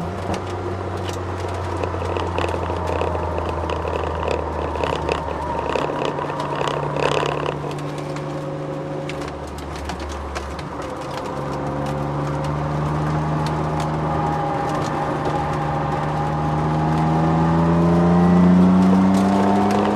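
Twin-turbo Ford Sierra XR4x4's V6 engine heard from inside the cabin while lapping a track: the revs sit steady, ease off for a few seconds mid-way, then climb in a long pull under acceleration that peaks near the end. Scattered knocks and rattles from inside the car run throughout.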